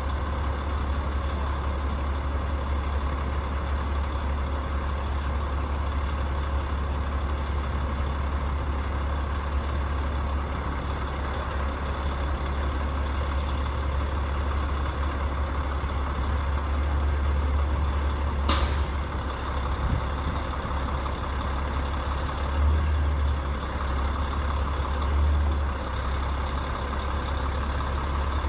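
HVAC rooftop unit running with a steady low hum, and a single sharp click about two-thirds of the way in.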